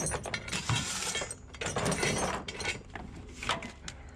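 Metal parts clinking and clattering as aluminum pieces are pried and pulled apart with hand tools, a quick series of sharp clicks and knocks.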